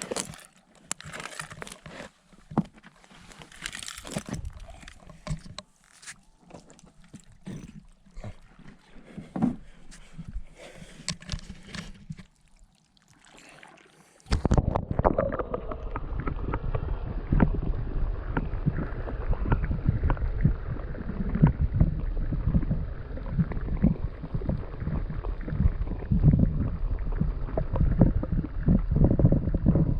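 Quiet open-air water sounds with a few light knocks and clicks. About halfway through, the sound suddenly turns muffled and dull: a steady low rushing and sloshing of water heard from under the surface through a GoPro's waterproof housing.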